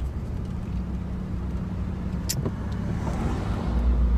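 Car cabin noise while driving: a steady low drone of engine and road. One sharp click comes a little over two seconds in.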